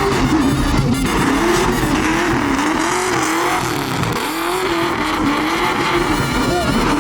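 A truck doing a burnout: the engine revs rise and fall over and over against a constant noise of spinning tires.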